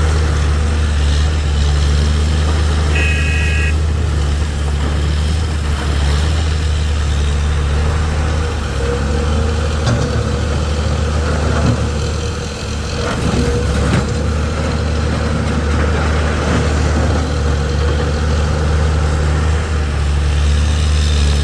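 Large excavator's diesel engine running steadily with a low, even hum. A brief high tone sounds about three seconds in, and a few sharp knocks come near the middle.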